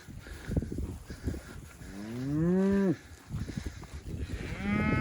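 Cattle mooing twice. One long moo about two seconds in rises and then falls, and a second moo starts near the end.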